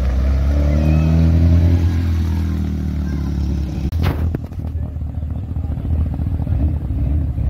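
Classic Škoda 100-series rally car's engine driving slowly past, its note easing down in pitch over the first three seconds. About four seconds in there is a sharp click-like break, after which background engine noise and voices continue.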